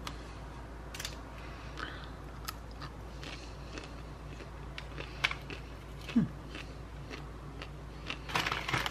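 A person chewing a mouthful of food close to the microphone: quiet mouth sounds and scattered small clicks, with a short cluster of louder rustling noise near the end.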